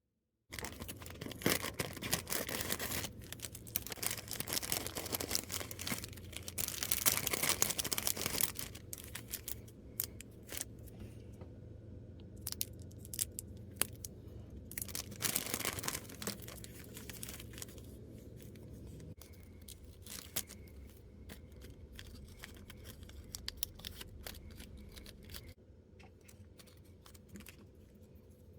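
Miniature toy packaging being torn open and crinkled by hand in several spells, the loudest about six to eight seconds in. Small clicks and taps, typical of little plastic pieces being handled, come in between.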